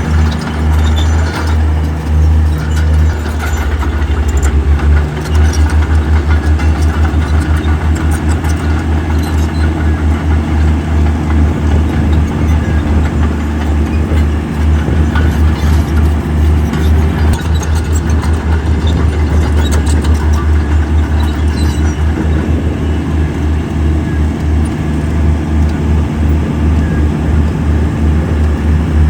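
Heavy diesel engine of a construction machine running hard, a loud, deep, rapidly pulsing throb, with short knocks now and then.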